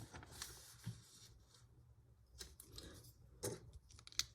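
Plastic Lego pieces being handled and pressed together: a few faint, scattered clicks, the clearest about three and a half seconds in and just before the end.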